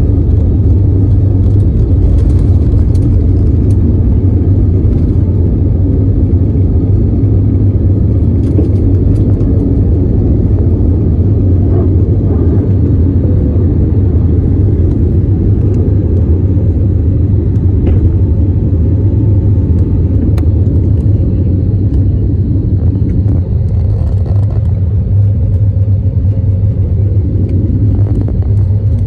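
Airliner's jet engines and airflow during a takeoff: a loud, steady low rumble that hardly changes.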